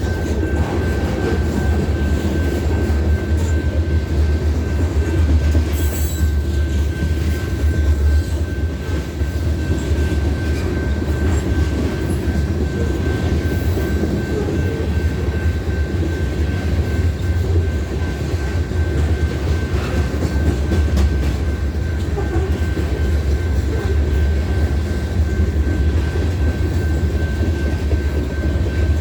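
BNSF hopper train's cars rolling past: a steady heavy low rumble with wheel clatter over the rails and a thin, steady high squeal from the wheels.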